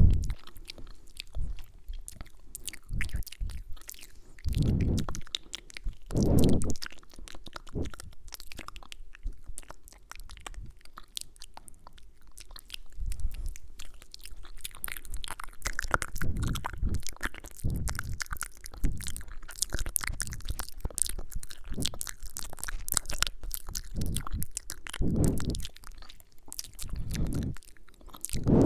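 Close-microphone ASMR mouth sounds: wet lip smacks, clicks and kissing sounds in a dense, irregular patter. A few soft low thumps come in between.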